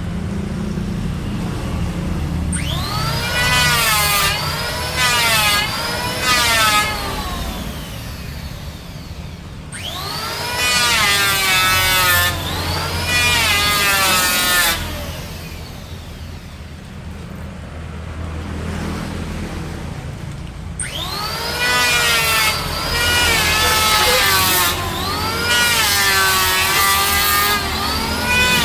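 Electric woodworking power tool cutting mahogany in three spells, the motor's whine dipping in pitch and recovering again and again as it bites into the wood, with quieter running between the cuts.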